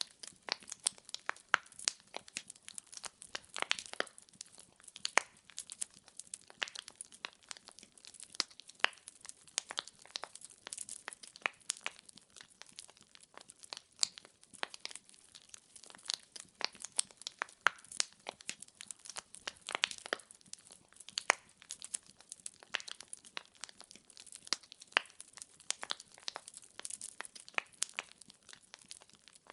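Wood fire burning in a fireplace, logs crackling and popping with many small sharp snaps at irregular intervals.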